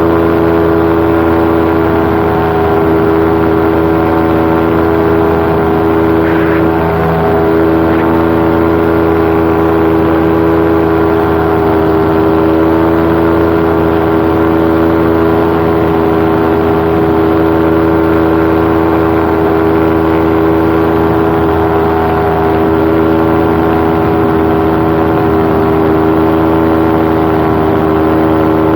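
Paramotor engine and propeller running steadily at cruise power in flight, a loud, unchanging drone heard from the pilot's seat.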